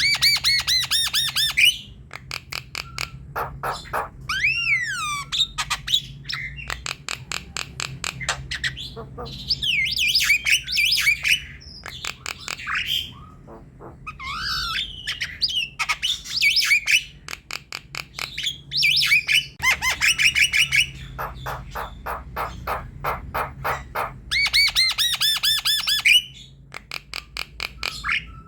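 Javan myna chattering in full song: runs of fast repeated harsh notes, about ten a second, broken by whistled rising and falling glides and squawks.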